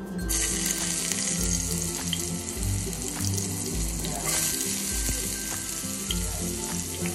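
Hot oil sizzling in a frying pan as chopped food is dropped in. The sizzle starts suddenly just after the start and then holds steady. Background music with a steady beat plays underneath.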